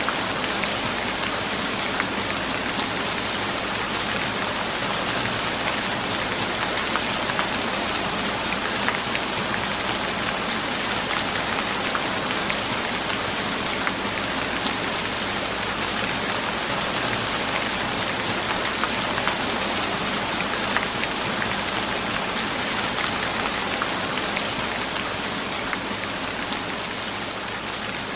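Steady rain falling on a surface, a dense even hiss with scattered distinct drop patters, easing slightly in loudness near the end.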